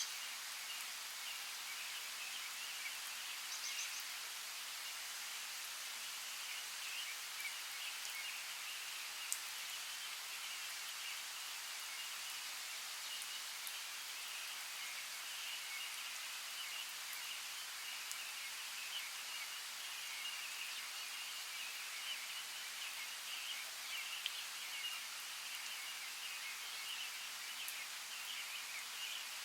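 Rainforest ambience: a steady, even hiss of rain and rustling foliage with a constant flickering high chatter, and a short bird call about four seconds in.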